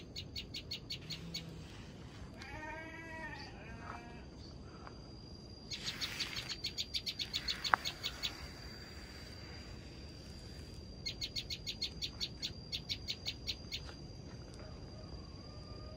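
Bar-winged prinia (ciblek) calling in three bouts of rapid, evenly repeated high notes, about five a second. Another bird's lower, arching call comes between the first two bouts, and there is a single sharp click near the middle.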